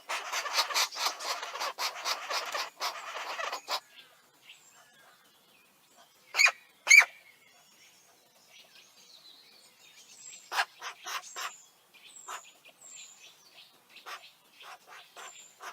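Green woodpecker chicks in the nest giving a rapid, rasping begging chatter for about four seconds, the noise of nestlings clamouring to be fed. After that come two loud short calls and then scattered short calls and high chirps.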